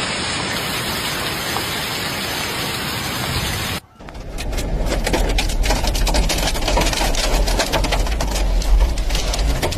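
Heavy rain pouring in a steady hiss, then, after an abrupt cut about four seconds in, rain and hail pelting a hard surface in a rapid clatter of sharp taps over a low rumble.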